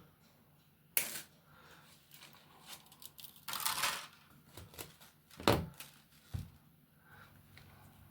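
Clicks, a short scraping rustle and knocks from handling a 3D pen and its PLA filament while the filament is loaded: a sharp click about a second in, a brief rustle a little past halfway, then two knocks close together.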